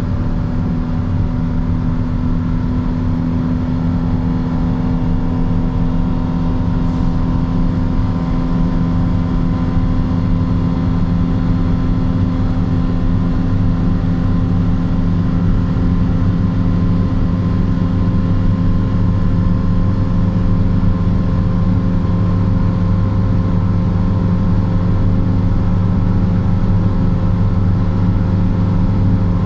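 Nissan Patrol pickup's 4.8-litre straight-six (TB48 VTC), fitted with an aftermarket air filter and exhaust, pulling hard in a high gear at high road speed: a loud, steady engine drone whose pitch and loudness climb only slightly.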